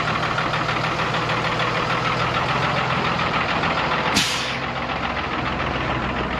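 Cummins 6.7-litre six-cylinder diesel of a Blue Bird school bus running steadily, with a short burst of air hiss about four seconds in.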